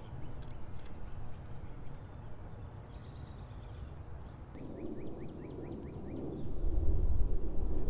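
Backyard birds calling at a feeder: faint high chirps, then a quick run of about seven short notes halfway through. Background noise builds, and a strong low rumble comes in near the end.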